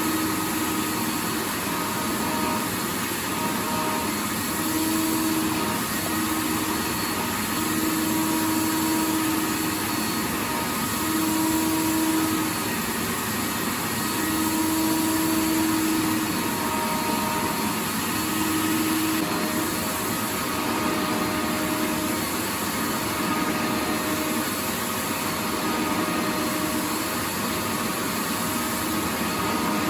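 Vacuum cleaner running continuously, a steady rush of motor and airflow with a low hum that fades in and out every few seconds.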